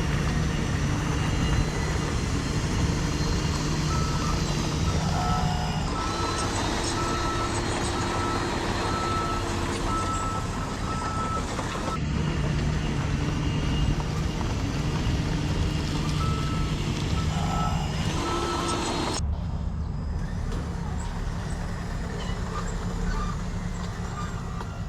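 Reversing alarm of a radio-controlled truck beeping at an even pace over the steady hum of its electric drive. The beeps stop for a while partway through, come back, and are gone in the last few seconds while the motor hum carries on.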